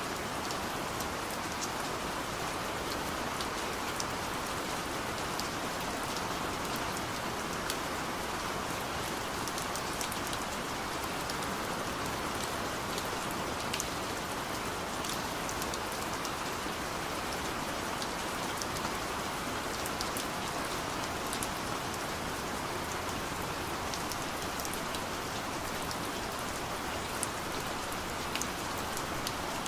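Steady rain falling on a car from the inside, an even hiss with many separate drops ticking on the roof and glass.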